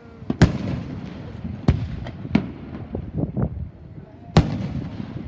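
Aerial fireworks shells bursting in a series of booms, each with a rumbling tail. The two loudest come about half a second in and near the end, with smaller pops between.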